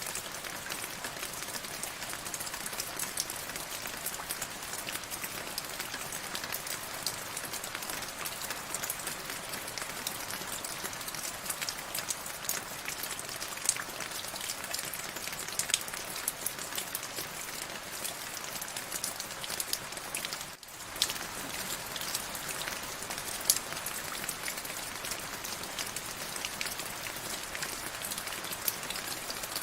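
Steady rain falling, an even hiss with many separate drops striking sharply, the level dipping for an instant about two-thirds of the way through.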